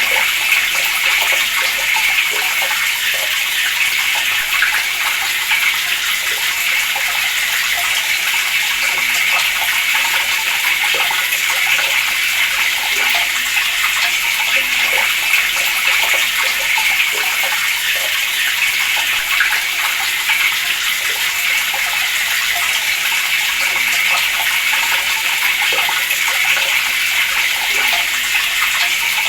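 Water running steadily from a tap, a continuous splashing hiss with no change.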